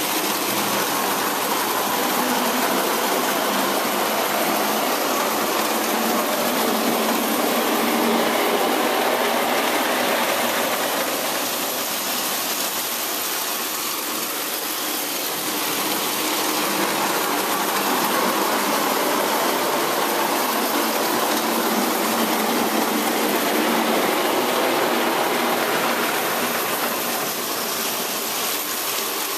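French Hornby PO O-gauge tinplate electric locomotive, with its 20-volt motor, running around a track pulling a couple of passenger cars. The motor whirs and the wheels rattle on the rails in a steady noise that swells and fades twice as the train circles the layout.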